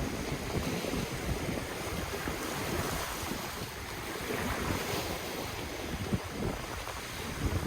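Ocean waves washing in as a steady surf hiss, with wind buffeting the microphone in low gusty rumbles.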